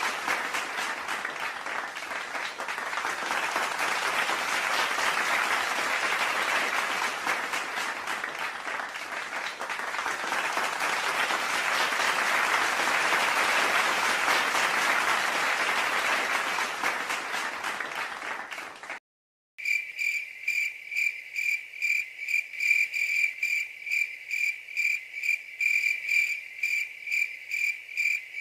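A crowd applauding for about nineteen seconds. It cuts off, and after a moment's silence a cricket starts chirping, a high tone pulsing about three times a second.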